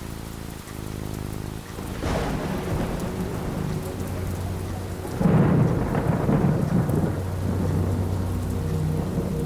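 Thunderstorm: steady falling rain, with thunder beginning to rumble about two seconds in and a louder clap about five seconds in that rolls on for several seconds.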